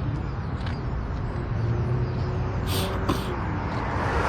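Car engine running at low revs in a car-meet lot, a steady low rumble, with two short hisses about three seconds in and the noise swelling near the end as a vehicle draws closer.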